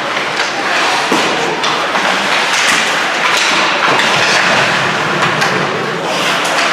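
Ice hockey play: sticks and the puck knocking against the boards and ice, several scattered knocks over a steady wash of crowd and arena noise.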